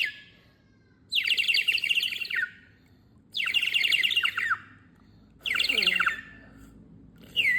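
Water-filled bird whistle blown in four bursts: a fast, bubbling, high warble like birdsong. Each burst slides down in pitch as the breath ends, and the last one is short.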